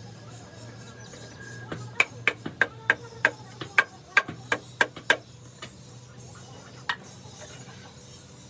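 A hammer striking metal: about a dozen quick, ringing blows over three seconds, then one more a couple of seconds later, over a steady low machine hum.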